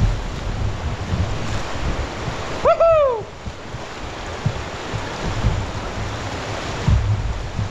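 Rushing river water with wind buffeting the microphone. About three seconds in comes a short, loud, pitched call that rises and then falls, lasting about half a second.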